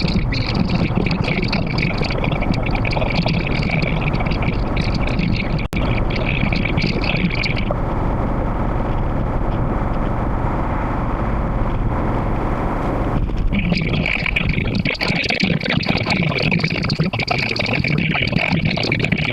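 Steady road and wind noise of a moving car, with a higher hiss that drops out for about five seconds in the middle and then returns.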